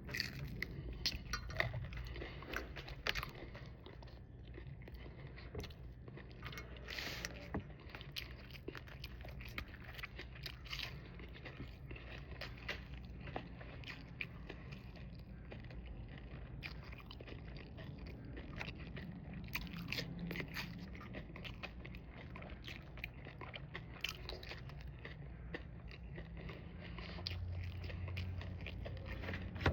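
A person eating close to the microphone: biting and chewing fried chicken and catfish, with many small irregular crunches and wet mouth clicks over a low steady hum.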